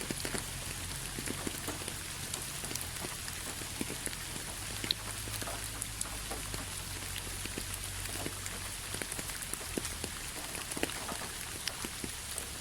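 Steady rain falling, an even hiss sprinkled with many scattered drops ticking close by, over a faint low rumble.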